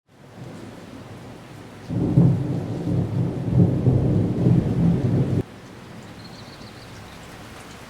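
Steady rain with a low rumble of thunder starting about two seconds in, which cuts off abruptly about five seconds in, leaving the rain.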